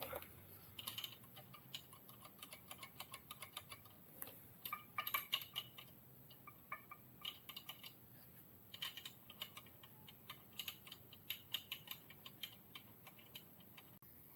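Faint, irregular light clicking and tapping in loose clusters, from hand work with small tools and parts.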